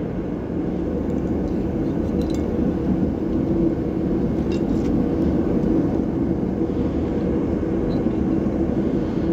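Steady mechanical humming drone, with a few faint clicks.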